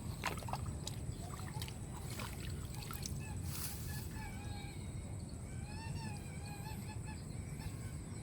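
Outdoor ambience: a steady low rumble with scattered clicks and knocks. Through the middle of it, an animal gives a series of short pitched calls.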